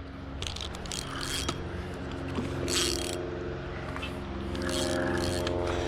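A fishing reel's drag buzzing with rapid clicking as a hooked carp pulls line off against it. It grows somewhat stronger in the second half.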